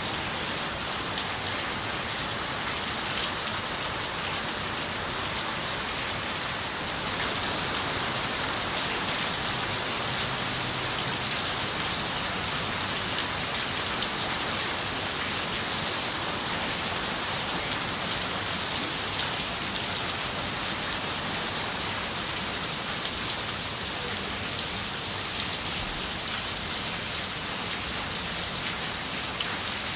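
Steady rain on a window glass: a dense, even hiss with scattered drop taps. It gets slightly heavier about seven seconds in.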